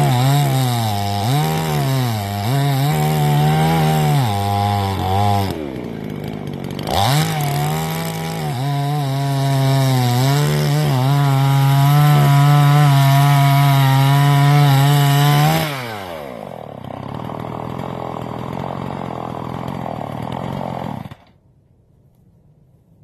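Generic 45cc two-stroke Chinese chainsaw at full throttle cutting through a log, its engine pitch dipping and recovering under load. After a short break about six seconds in, it makes a longer, steadier cut. The throttle is then released, the engine drops to idle, and it shuts off about 21 seconds in.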